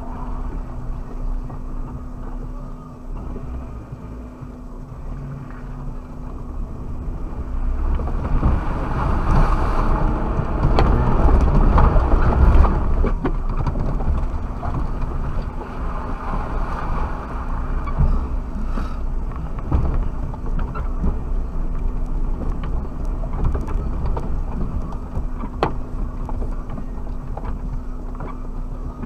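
Suzuki Jimny driving off-road: engine running with a steady hum under a low rumble and scattered knocks, swelling louder for several seconds in the middle before settling back.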